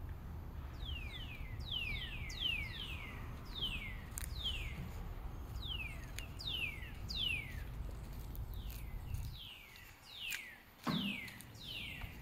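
A bird singing a long run of short, clear whistles, each sliding down in pitch, two or three a second. Under it a low rumble stops about three quarters of the way through, and a short thump comes near the end.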